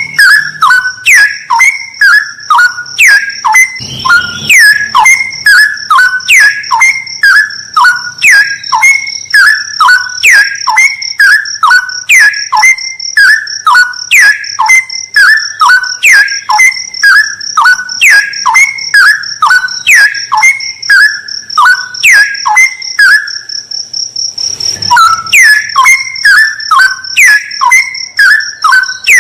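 Straw-headed bulbul (cucak rawa) singing: loud, quick falling whistled notes repeated in an even rhythm about twice a second, over a steady high-pitched buzz, with a brief break a few seconds before the end.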